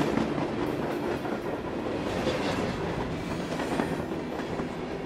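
Train running on the rails: a steady rumble with scattered irregular clicks.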